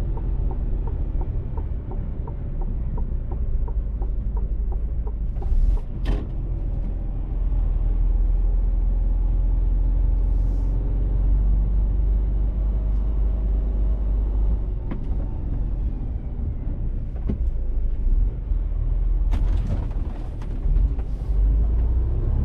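Mercedes-Benz Actros truck heard from inside the cab while driving: a steady low engine and road rumble, with a few sharp clicks or knocks about six seconds in and again near the end.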